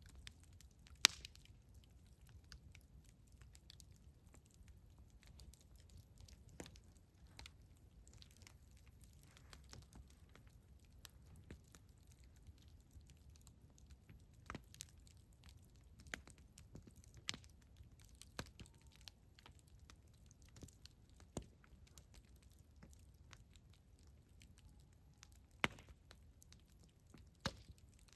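Campfire wood crackling, with sparse sharp pops of burning wood at uneven intervals, the loudest about a second in, over a faint low rumble.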